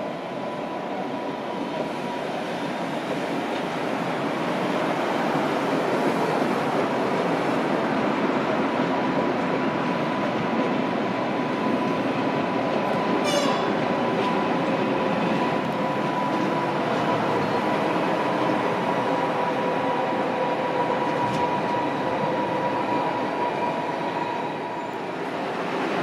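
Matterhorn Gotthard Bahn metre-gauge train rolling slowly past on its street-side track, its running noise growing louder over the first few seconds, with a steady high whine held on top and a brief squeak about halfway through.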